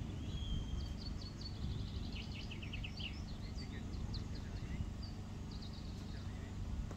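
Small songbird singing a run of quick chirps, short trills and whistles over a steady low background rumble.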